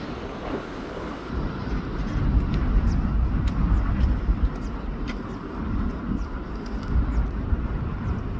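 Airbus A321 jet engines running as the airliner passes: a steady, deep rumble that grows louder about a second in.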